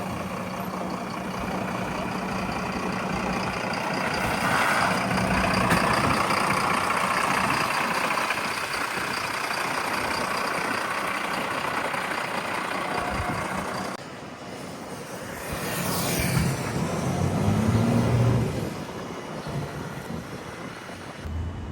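Heavy fire truck engines running, with a truck moving close by and growing louder about 16 to 18 seconds in. The sound changes abruptly about 14 seconds in.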